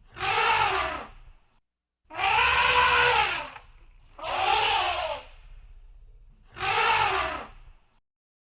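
Elephant trumpeting: four loud calls about two seconds apart, each lasting about a second and rising then falling in pitch.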